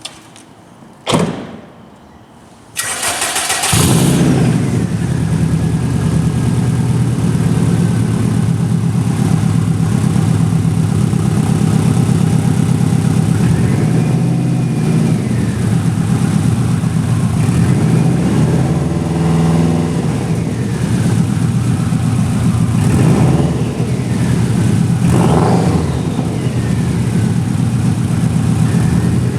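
A 2004 Subaru WRX's turbocharged flat-four starts about three seconds in, after a brief knock, and settles into a steady idle through an HKS Hi-Power exhaust with a high-flow cat. The engine is blipped in a few short revs later on.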